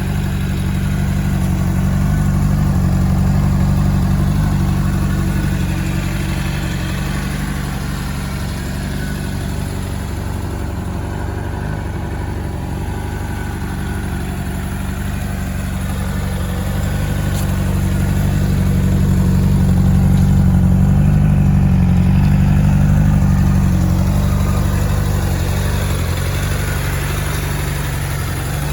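A 2007 Honda CBR600RR's 599cc inline-four engine idling steadily, with no revs. It grows louder and softer slowly, twice.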